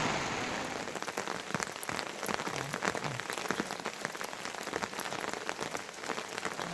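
Rain falling, with many separate drops striking close by as quick sharp ticks over a steady hiss.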